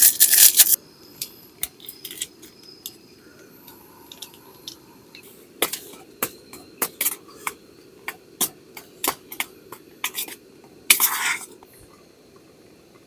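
A loud crinkling rustle at the start, then a string of light clicks and clinks from small hard objects being handled, with another short rustle about eleven seconds in.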